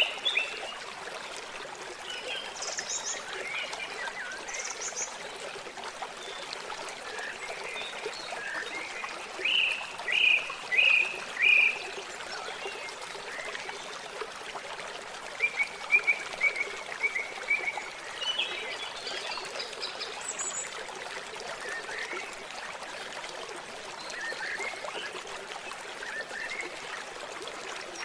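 Steady running water with small animal calls chirping over it. About ten seconds in come four loud rising chirps, and a few seconds later a quick run of notes.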